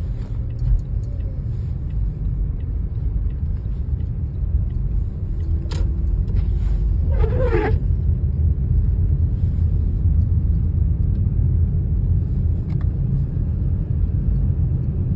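Storm wind buffeting the microphone: a steady, heavy low rumble. About halfway through, a brief wavering higher-pitched sound.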